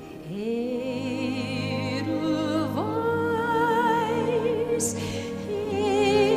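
Orchestral music: long held melody notes with vibrato, sliding up into new notes near the start and again a little under halfway through, growing louder toward the end.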